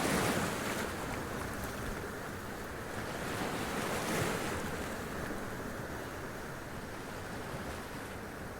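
Sea waves washing up onto rocks and splashing, with a surge right at the start and another about four seconds in, over a steady rush of surf.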